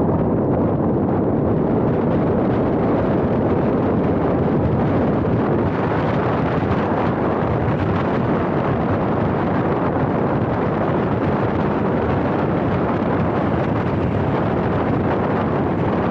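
Steady wind rumble buffeting a small action camera's microphone while driving, mixed with road noise from the moving vehicle.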